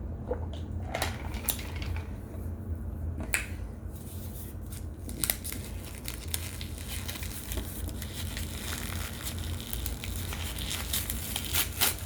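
Dry crinkling and crushing handling sounds with scattered sharp clicks, becoming denser and busier near the end.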